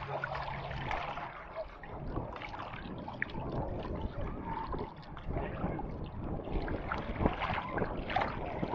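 Strong wind at the seafront with sea water splashing and churning, the wind buffeting the microphone in a steady rough rush scattered with crackles.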